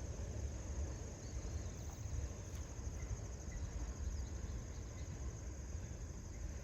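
Insects trilling steadily, a high, rapid pulsing chirr like crickets or katydids, over a low rumble.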